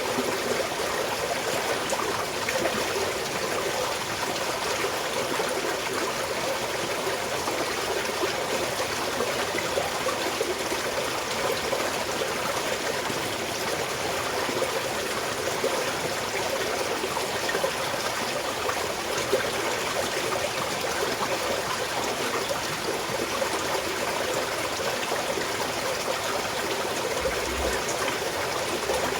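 Small stream of water flowing and trickling steadily, a continuous even babble.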